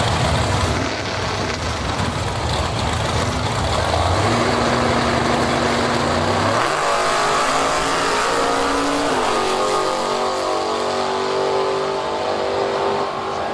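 Sportsman drag racing car engine at full throttle: a deep drone at first, then from about halfway the pitch climbs in steps as the car accelerates away down the strip.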